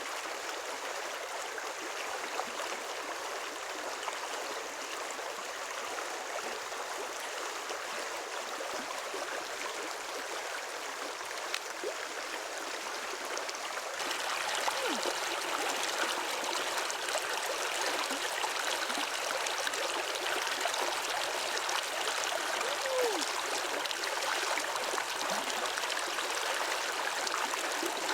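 Running water of a stream, a steady rushing that grows louder and brighter about halfway through, with a few short gurgles.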